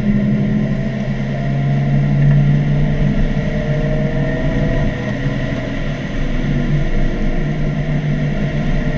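Mazda NC Miata four-cylinder engine pulling under load on track, its pitch climbing slowly, easing once about halfway through, then climbing again, over road and wind noise.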